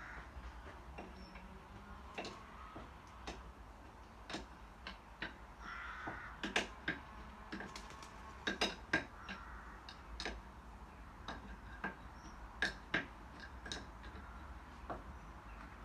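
Irregular sharp clicks and light knocks, a dozen or more scattered through, of tools and small metal engine parts being handled, over a faint steady hum.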